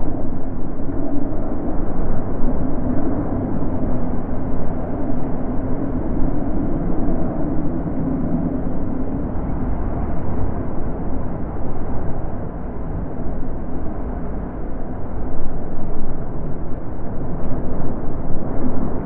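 Wind blowing in a continuous low rumble that swells and eases in gusts, strongest about three-quarters of the way through.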